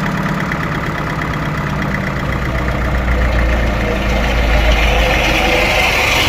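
Sawmill machinery running with a steady engine hum. From about four seconds in it grows louder and harsher in the upper range.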